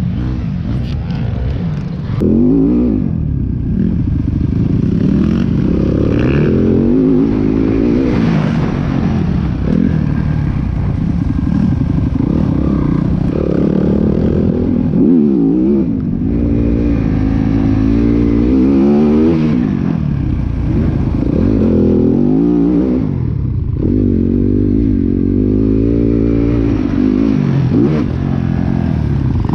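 Dirt bike engine being ridden hard, its pitch rising and falling again and again as it accelerates, shifts and backs off.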